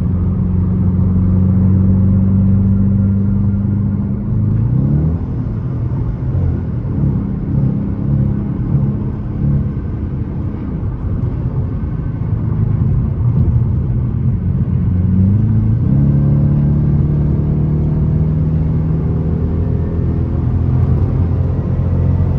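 Dodge Challenger R/T's Hemi V8 droning steadily while cruising, heard from inside the cabin. Its pitch climbs about five seconds in, wavers, and steps up again about sixteen seconds in as the car picks up speed.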